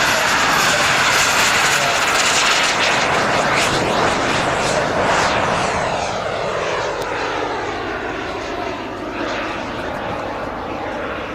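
Jetcat P120 turbine engine of a BVM Super Bandit RC jet, a loud rushing jet whine as the model passes. The sound drops in pitch and fades over the second half as the jet flies away.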